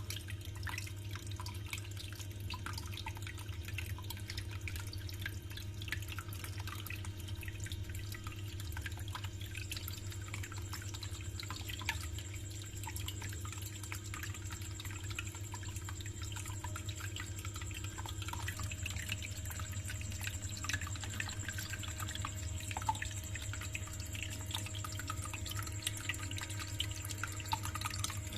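Small homemade tabletop water fountain running: water trickling and dripping in many small irregular drops, over a steady low hum from its small DC water pump.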